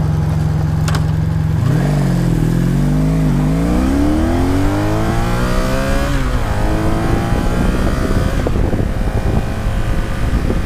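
1983 Honda Sabre VF750S's 750cc V4 engine running steadily, then accelerating hard through the gears. The revs climb for about four seconds, drop at an upshift about six seconds in, climb again, and drop once more at a second shift near the end, with wind noise building.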